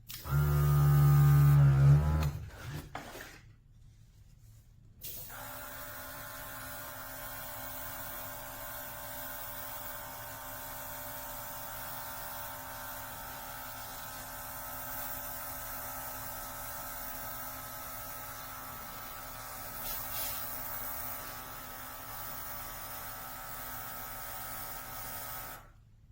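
Small electric motor: a loud burst for about the first two seconds that falls in pitch as it dies away, then after a short gap a steady hum running for about twenty seconds before cutting off near the end.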